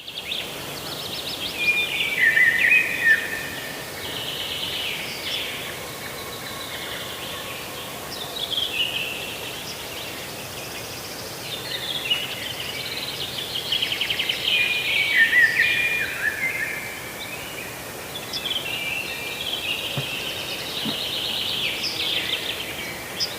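Songbirds singing: rapid trilled phrases that step down in pitch, repeated every few seconds over a soft, steady background hiss.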